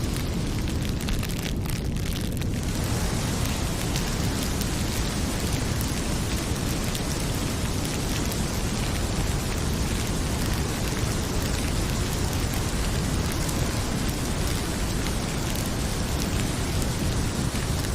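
Heavy rain pouring steadily with faint crackles of a wood fire over it. The upper hiss thins briefly about a second in.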